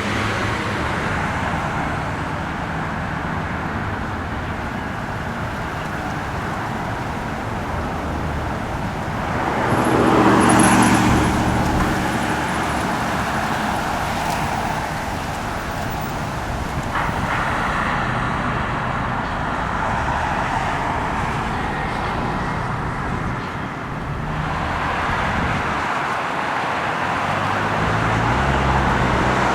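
Steady road traffic noise, with one vehicle passing louder about ten seconds in.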